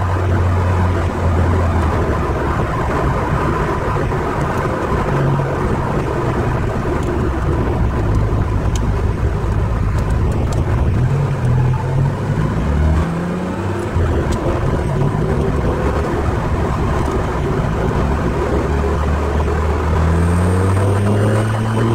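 Ferrari 308 GTSi's V8 engine heard from inside the cabin while driving, its revs climbing and dropping back around the middle and climbing again near the end, over steady road and wind noise.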